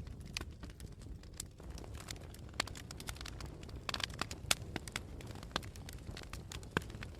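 Wood campfire crackling: irregular sharp pops and snaps, a few louder ones about midway and near the end, over a steady low rumble.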